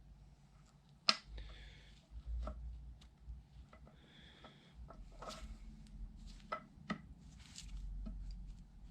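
Scattered small clicks and knocks with short stretches of rubbing, the sharpest click about a second in: a universal joint and its needle-bearing cap being handled and fitted together by hand.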